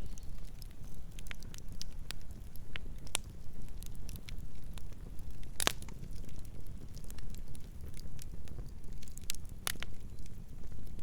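Campfire burning with a low steady rumble and irregular crackles and pops, the loudest pop about five and a half seconds in.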